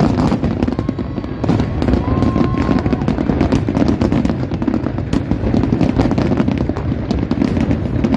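Aerial fireworks bursting in quick succession: a dense run of bangs and crackles over a continuous rumble.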